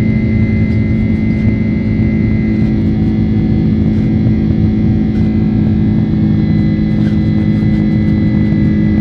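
Boeing 767-300 jet engines heard from inside the cabin: a steady, loud drone with a deep rumble and a few constant humming tones.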